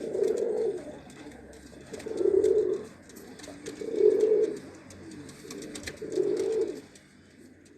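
Homing pigeon cooing: four low coos, one about every two seconds.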